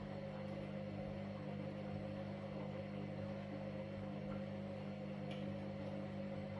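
Washing machine running, its motor giving a steady hum with a slightly wavering whine above it.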